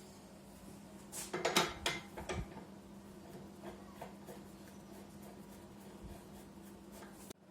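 A quick run of sharp clicks and metallic knocks, like small metal parts or tools being handled, about a second in, followed by a few faint ticks, over a faint steady hum.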